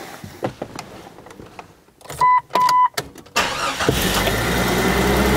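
Two short beeps, then the starter cranks briefly and the 1997 Jeep Cherokee's 4.0L inline-six catches on the first try and settles into a steady idle, with its freshly cleaned throttle body and new throttle body gasket.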